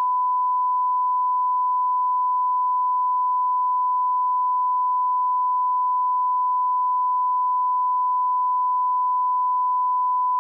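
Steady 1 kHz sine-wave reference tone at −18 dBFS, an audio line-up test tone, held at one constant pitch and level.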